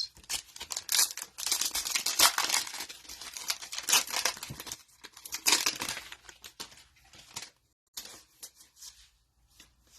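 A trading-card pack's wrapper crinkling and tearing as it is opened, a dense run of irregular crackles for about seven seconds that thins to a few faint rustles near the end.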